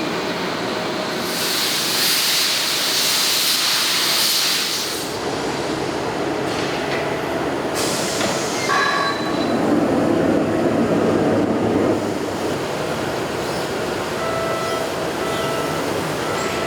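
Bearing factory machinery running, with a loud hiss starting about a second and a half in and lasting some three seconds, then a stronger low rumble for a couple of seconds near the middle.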